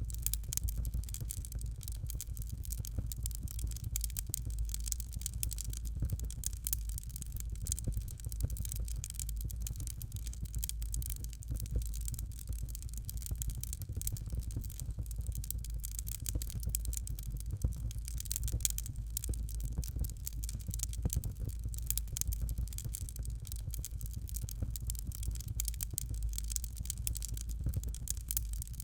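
Fireplace fire crackling steadily, with many small pops over a low rumble.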